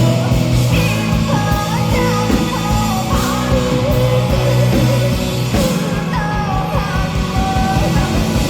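Live rock band performance with a woman singing a gliding, bending melody over drums and electric guitar.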